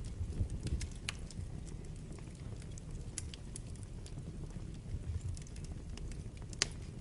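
Wood fire burning in a fireplace, with a steady low rumble of flames and scattered sharp crackles and pops, the sharpest one near the end.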